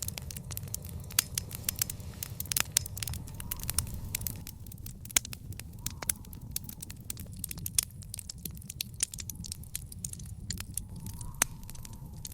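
Backyard fire pit fire crackling, with frequent irregular sharp pops and snaps over a steady low rumble of the flames.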